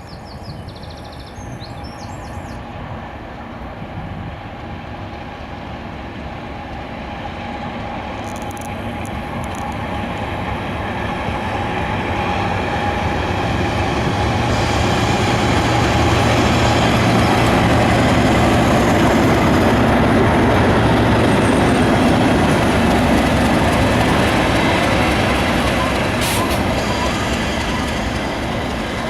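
English Electric Class 37 diesel locomotive, with its V12 engine working under power, hauling a train past. The engine note builds steadily as it approaches, is loudest about two thirds of the way through, then eases slightly as it passes.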